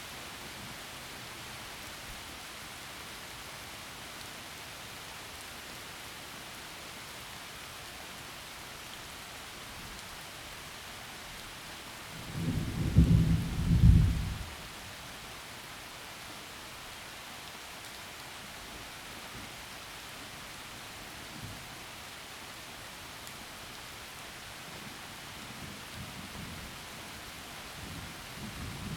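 Heavy rain falling through forest trees, a steady hiss throughout. Thunder cracks loudly about halfway through and rumbles for about two seconds. A low rumble of thunder builds again near the end.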